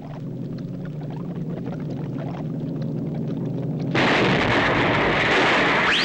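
Cartoon sound effects: a low mechanical hum grows steadily louder, then about four seconds in a sudden loud explosion-like blast of noise breaks out and keeps going.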